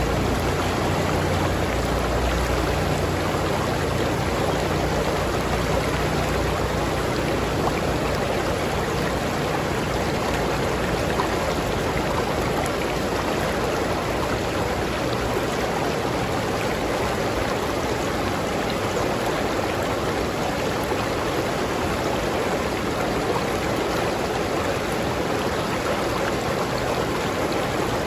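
River water flowing over rocks in a steady, dense rush, with a low rumble in the first few seconds.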